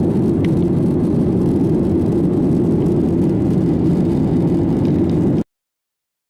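Steady low rumble of an airliner's engines and airflow heard inside the passenger cabin, cutting off suddenly about five seconds in.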